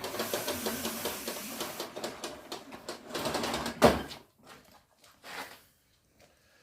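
Compressed air hissing with a fluttering rattle from an air line, blowing up a Land Rover inner tube. It cuts off about four seconds in, followed at once by a single sharp knock.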